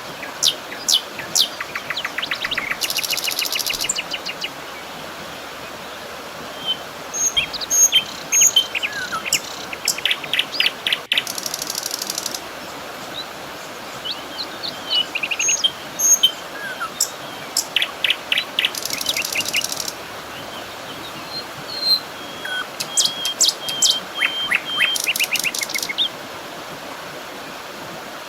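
Several songbirds chirping, whistling and trilling, with fast runs of repeated notes and a few buzzy trills lasting about a second, over a faint steady hiss of outdoor background.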